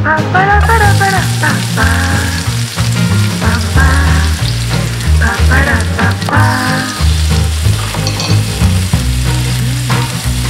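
Chopped shallots and garlic sizzling in hot duck fat in a frying pan, with a knob of butter melting and bubbling in; the sizzle sets in about half a second in. Background music with a bass line and melody plays over it and is the loudest sound.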